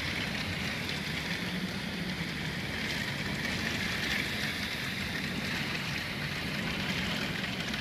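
Heavy hail and rain falling, a dense, even hiss that holds steady throughout.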